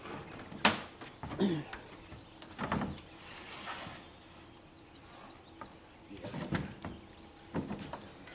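Sailboat hatch covers being opened: scattered knocks and clicks, with a short sliding scrape about three seconds in.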